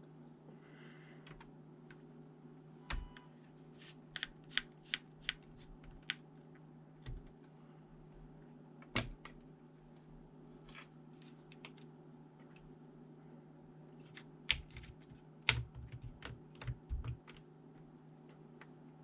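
Scattered sharp clicks and taps on a ThinkPad T400 laptop, like keys being pressed or plastic parts being handled, over a steady low hum. There are a few isolated clicks, then a cluster about four to six seconds in and another near the end.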